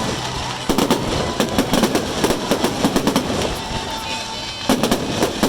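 Fireworks display: clusters of rapid crackling bangs over a steady low rumble, with a faint whistle about four seconds in.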